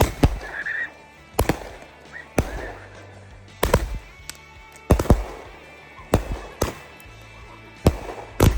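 A box of consumer fireworks firing off a string of sharp bangs, roughly one a second with some in quick pairs.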